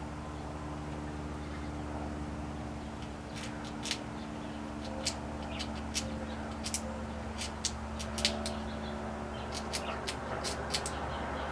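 Squirrel gnawing a pecan shell: irregular sharp clicks and cracks, a few a second, starting about three seconds in, over a steady low hum.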